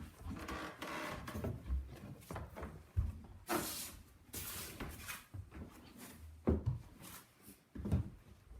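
Irregular knocks and bumps with rustling in between, including a longer hissing rustle a few seconds in.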